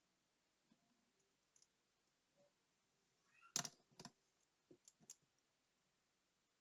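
Scattered small clicks and taps of tools and tiny watch parts being handled. Faint ticks come early, the loudest cluster about three and a half to four seconds in, then a few more soon after.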